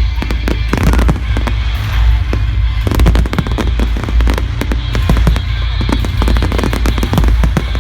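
Fireworks display: rapid bangs and crackling over a loud music soundtrack with a heavy bass, the bursts growing denser about three seconds in.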